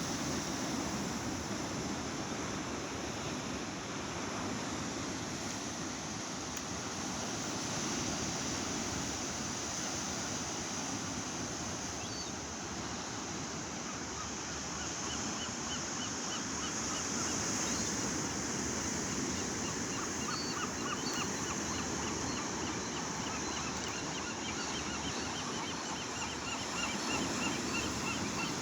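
Gulls calling, a rapid run of short repeated notes that starts about halfway through, over a steady rushing noise.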